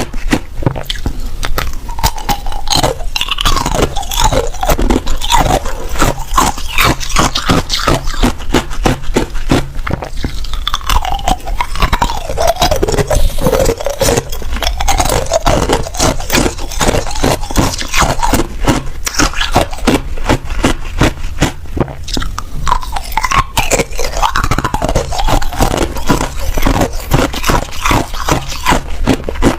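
A person biting and chewing ice, a loud, rapid run of crunches several times a second without a break.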